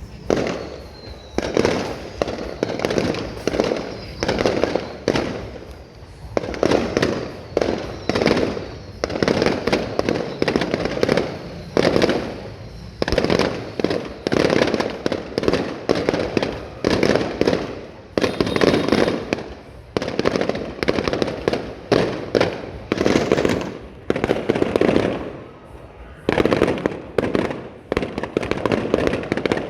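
Aerial fireworks going off in a rapid, continuous string of bangs and booms, each trailing off as the next comes in. A faint falling whistle is heard about a second in.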